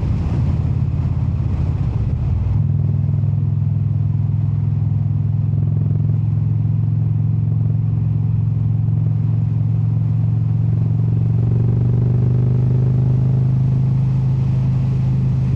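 Indian cruiser motorcycle's V-twin engine running steadily at road speed, heard from the rider's position. The engine note changes once, about two and a half seconds in.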